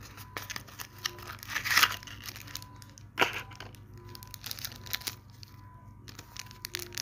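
Packaging being handled and crinkled while a data cable is taken out of an earbud box: irregular rustling and crackling with a sharp click about three seconds in.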